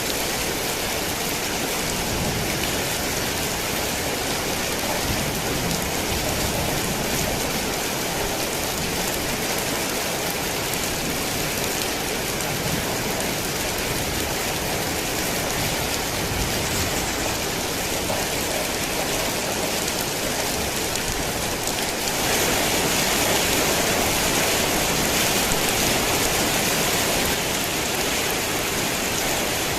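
Heavy rain falling in a dense, steady hiss, growing a little louder about two-thirds of the way through.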